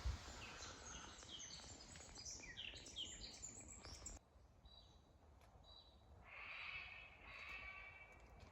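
Faint bird calls: a rapid run of quick, falling high notes that cuts off suddenly about four seconds in, followed by a few short high notes and a brief spell of chattering calls.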